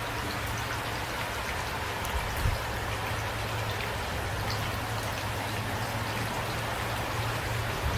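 Steady light rain falling, a constant hiss with scattered drop ticks over a low steady rumble. Two brief low thumps stand out a little over two seconds in.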